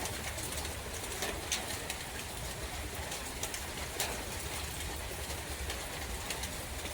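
Rain falling through a forest: a steady hiss with many scattered drop ticks, over a low wind rumble.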